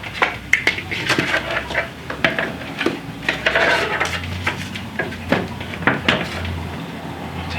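Motorcycle rear fender being slid and worked into place over the rear wheel: repeated knocks and clatter against the frame, with a stretch of scraping about three to four seconds in.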